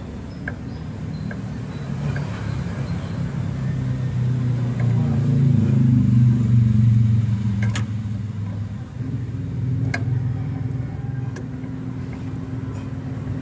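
A motor vehicle engine running, its low rumble growing louder to a peak about six seconds in, then easing off. A few sharp clicks sound over it.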